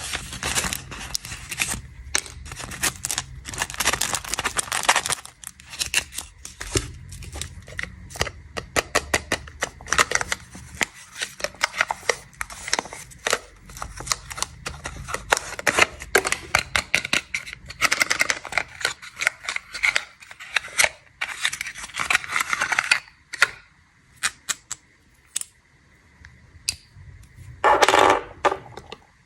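Snack packaging being handled and unwrapped: crinkling plastic wrappers with many quick clicks and crackles, quieter for a few seconds near the end before a louder crinkle.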